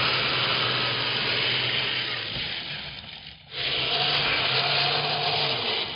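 Kyosho electric RC tracked snow vehicle driving through snow: a steady hiss of the tracks churning snow over a low motor hum. It drops off briefly about three and a half seconds in, then runs on again.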